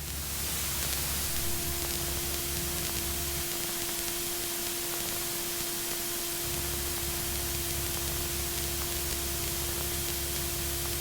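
Steady static hiss from an aircraft headset/intercom audio feed, with a constant hum tone running through it. A deeper drone underneath drops away for about three seconds midway.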